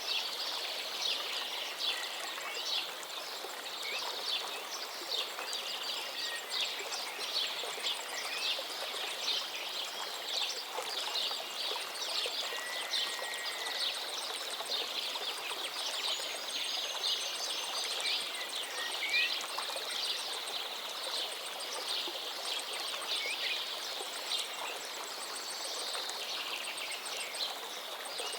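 Many birds chirping and singing in a dense, continuous chorus over the steady rush of a flowing stream.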